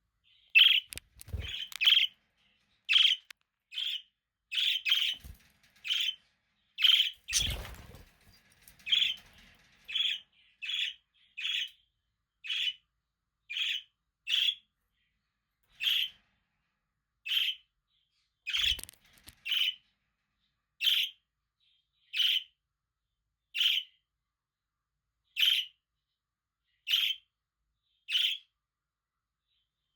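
A single budgie giving short, separate chirping calls, quickly in the first few seconds and then settling into an even pace of about one call every second and a half. A few soft thumps come in among the calls.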